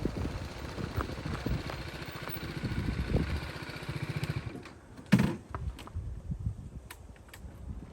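Motorcycle engine running with wind noise, then cutting out a little over four seconds in. A single loud thump follows about a second later, then a few faint clicks.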